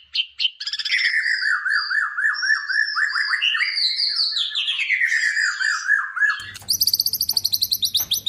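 White-rumped shama (murai batu) singing a loud, varied warbling song of rapid trills and whistled phrases. About six seconds in the recording cuts abruptly to a fast series of repeated rising chirps, about six a second, over a low background hum.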